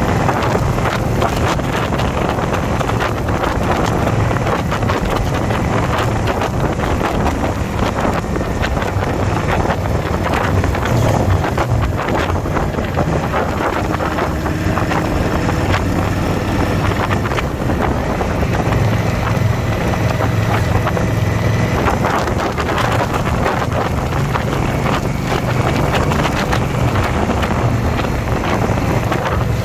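Indian motorcycle's V-twin engine running steadily at road speed, with wind rushing over the microphone.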